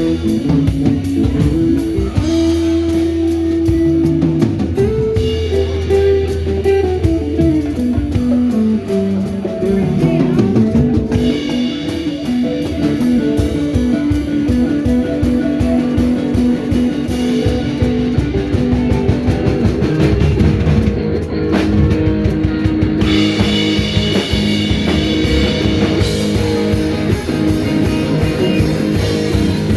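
A live rock band jamming instrumentally: a lead guitar holds notes and runs down the neck over bass and a drum kit.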